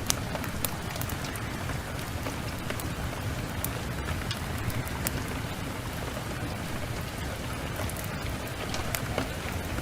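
Steady rain with scattered sharp ticks and crackles.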